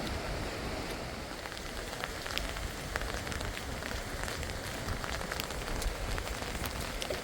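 Heavy rain falling and pattering on surfaces, with many scattered drop ticks over a steady hiss.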